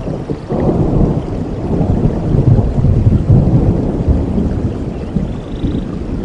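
Thunder rumbling over rain: a long low roll that swells suddenly about half a second in and slowly eases off.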